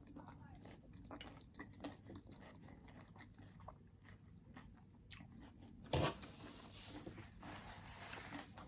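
Faint, close-up chewing and crunching of fried shrimp and salad, with one louder click about six seconds in.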